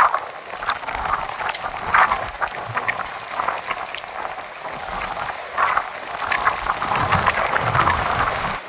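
Typhoon rain and wind: heavy wind-driven rain spattering in uneven surges, with a low rumble of wind near the end.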